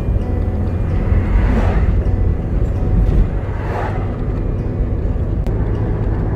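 Low, steady road and engine rumble of a moving vehicle, with two brief swells of noise about two and four seconds in, like vehicles passing.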